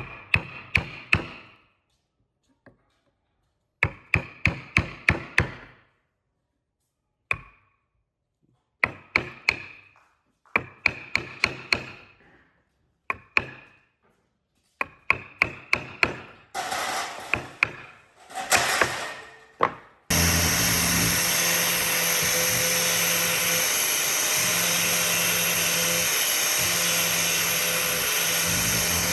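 Sharp ringing tool strikes in quick runs of four to six blows, with short pauses between runs. About twenty seconds in, an electric power tool starts and runs steadily with a low hum.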